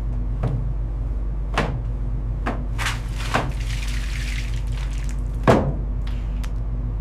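A steady low rumble with about seven short, sharp knocks or splashes scattered over it, the loudest about five and a half seconds in.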